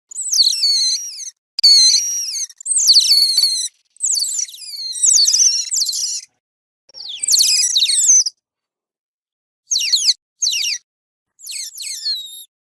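Otter chirping: runs of high, squeaky calls that fall in pitch, in about eight bursts of a fraction of a second to two seconds each, separated by short silent gaps.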